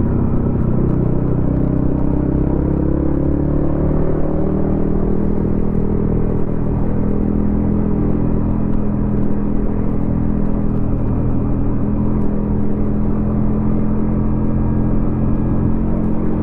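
Yamaha XSR155's single-cylinder engine through a DIY exhaust, rising gently in revs over the first few seconds, then holding a steady cruise.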